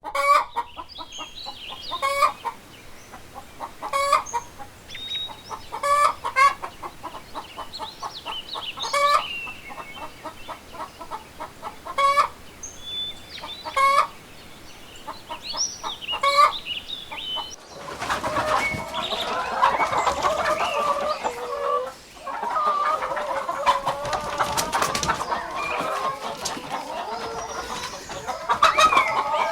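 Chickens clucking: at first single short clucks about every two seconds with small chirps between them, then, after a sudden change about two-thirds of the way in, the dense, overlapping clucking of a flock.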